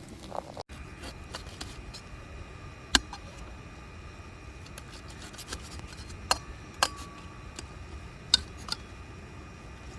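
A handful of sharp, separate clinks and taps, like tableware being handled, one of them ringing briefly, over a faint steady high tone.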